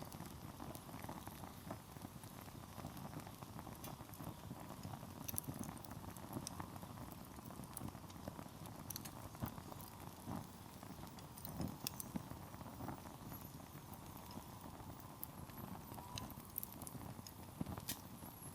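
Campfire of firewood burning, crackling with scattered irregular sharp pops over a steady low rush of flame.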